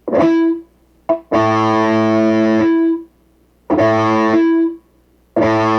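Distorted electric guitar chords played through a Positive Grid Reactor 50 combo amp with its noise gate switched on: a quick strum, then three held chords, each cutting off sharply into near quiet.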